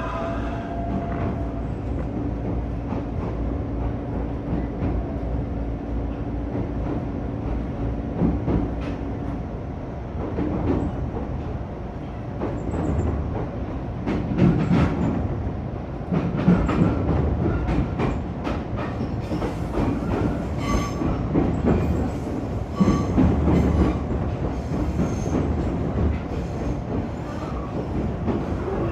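Train running over the rails: a steady hum for the first third, then wheels clacking and knocking irregularly over the track for the rest.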